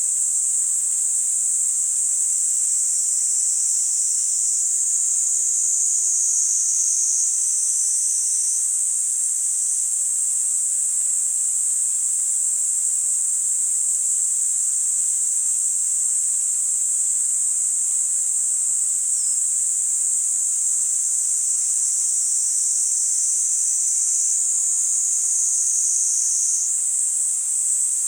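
Niiniizemi cicadas (Platypleura kaempferi) singing, a steady high-pitched shrill with no breaks, its lower edge thickening slightly a few times as voices overlap.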